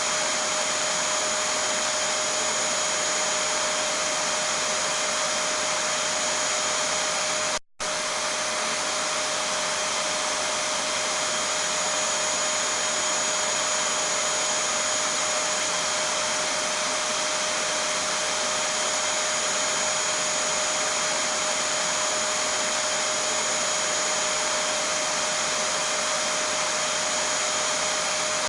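Vacuum cleaner running continuously: a steady rush of air with a constant whine on top. The sound cuts out for a split second about eight seconds in, then resumes unchanged.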